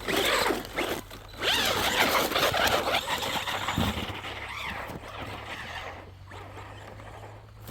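RC truck's electric motor whining up and down in pitch as it revs, with its tyres churning through snow. The sound is loudest over the first few seconds, then fades as the truck moves away.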